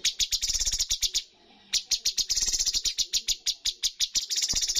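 Cucak cungkok singing a rapid-fire series of sharp, high notes, about ten a second, breaking off briefly about a second and a half in before the run resumes.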